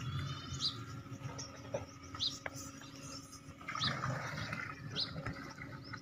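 A small bird chirping: about four short, high chirps, one every second or so, over a faint steady background.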